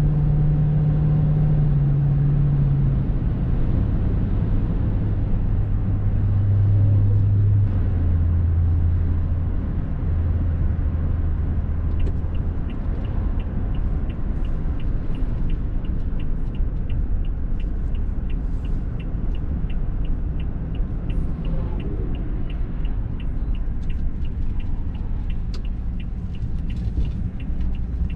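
Car driving, with a steady low rumble whose hum drops in pitch in steps over the first several seconds. A quick, even ticking, about two to three ticks a second, starts about halfway through.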